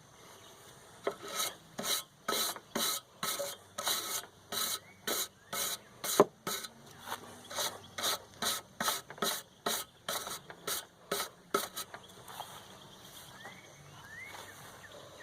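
Wire brush scrubbing the aluminium fins of a window air conditioner's dirt-clogged condenser coil in rhythmic back-and-forth strokes, about two a second, loosening the packed dirt that stopped the unit cooling. One sharper knock comes about halfway through, and the scrubbing stops near the end.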